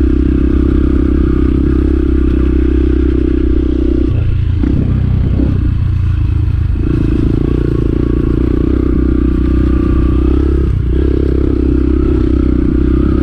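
Dirt bike engine running while riding, heard through a helmet microphone. The engine note breaks off about four seconds in and picks up again a couple of seconds later, with another short break near eleven seconds.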